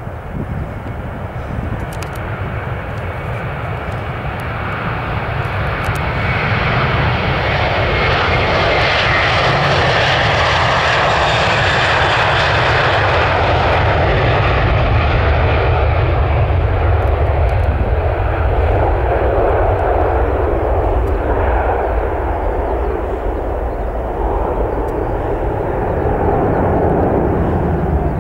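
An Airbus A321's jet engines at takeoff thrust during the takeoff run and climb-out. The sound grows louder over the first several seconds, holds loud and steady through the middle with a strong hiss, then eases a little as the hiss fades toward the end.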